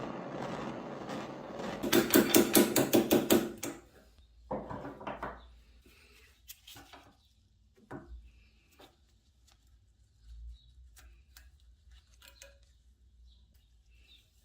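Handling noise with a fast, even run of sharp clicks, about eight a second, for a second and a half. A shorter rustle follows, then scattered light clicks and taps.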